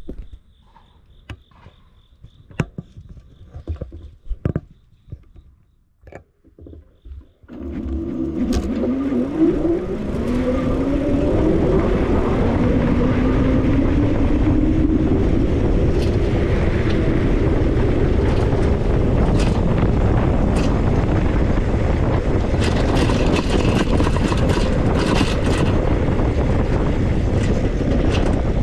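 E-bike ride starting up: a few light clicks and knocks, then, about seven seconds in, a loud steady rush of wind and rolling noise as the bike gets going, with a whine rising in pitch over the next several seconds as it picks up speed.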